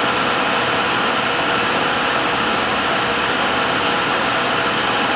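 Rebuilt heavy-truck powertrain unit running at a steady speed on a dynamometer test stand: a loud, even machine noise with a thin high whine held steady throughout.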